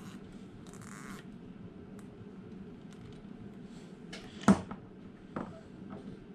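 Handling noise of small tools and wire connectors: a brief rustle about a second in, then a sharp click at about four and a half seconds, the loudest sound, and a softer click a second later, over a steady low hum.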